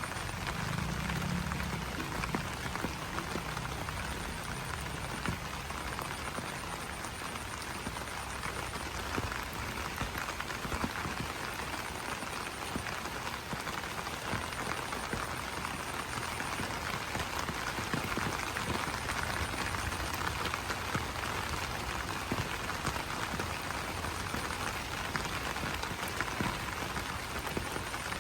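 Rain falling on banana leaves: a steady, dense patter of drops. Frogs croak low in the background, most clearly about a second in.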